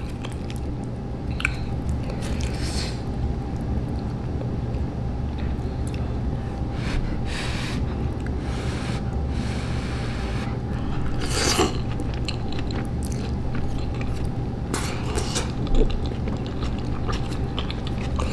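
Close-miked chewing of cheesy Samyang Buldak noodles, with a few short noisy bursts spread through, over a steady low hum.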